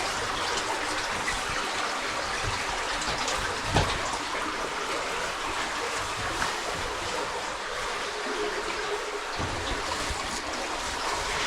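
Steady rush of a cave spring's running water, with a brief knock about four seconds in and a low rumble joining near the end.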